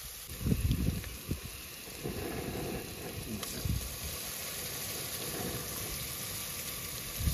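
Dal being ladled into a hot tadka of oil, chillies and spices in a steel pot, sizzling. There are a few low knocks of the steel ladle against the pot in the first second or so, then a steadier sizzle.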